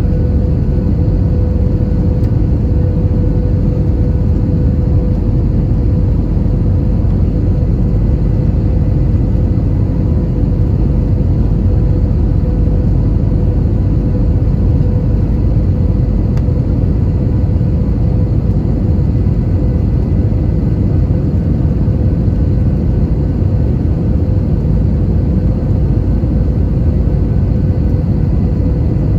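Cabin noise inside an Airbus A320 airliner: a steady, even rumble of engines and airflow with a faint constant hum on top.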